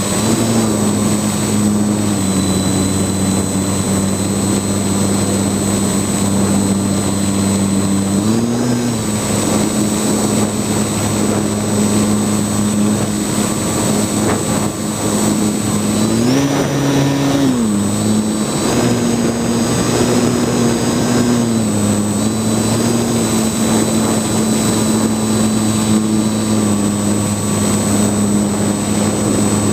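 Small UAV's motors and propellers humming steadily under a rushing wind noise, the pitch jumping up briefly about eight seconds in and again, higher, around the middle before settling back.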